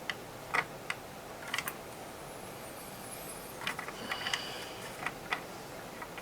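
Small hand tools clicking and scraping against the metal parts of a Dynaco SCA-80Q amplifier's control section during disassembly. The clicks are sharp and irregular, with a busier stretch of taps and a brief thin metallic ring a little past the middle.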